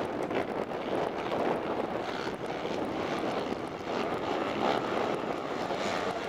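Engines of several small racing buggies running at speed on a dirt track, a continuous engine sound that rises and falls slightly.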